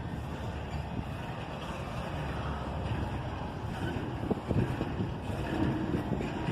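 Freight train rolling slowly past: a steady low rumble of wheels on the rails, with a few sharp clicks about four seconds in.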